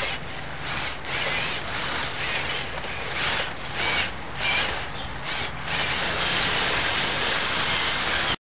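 Electric motors and plastic gearing of a Lego Technic trial truck whirring and grinding in uneven surges as it drives. The sound cuts off suddenly near the end.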